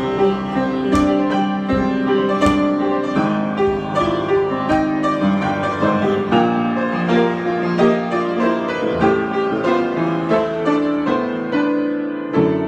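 Solo piano playing an unhurried improvisation, single notes and chords struck one after another and left to ring.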